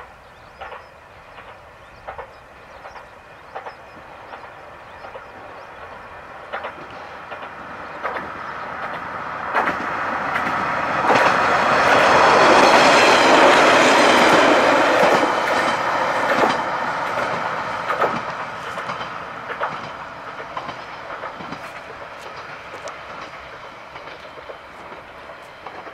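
Flower 2000 diesel railcar passing by: regular wheel clicks over the rail joints at first, then its engine and wheel noise swell loud as it goes past about halfway through and fade away as it runs off.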